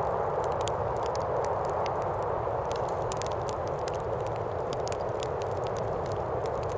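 Wood fire crackling in a fireplace, with frequent irregular sharp pops, over a steady rush of wind.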